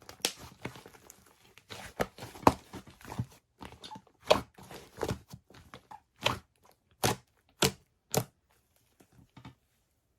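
Hands squishing and pulling a large fluffy slime, giving sticky crackling and popping sounds. The pops come thick at first, then thin out to a few separate ones about half a second apart, and stop about nine and a half seconds in.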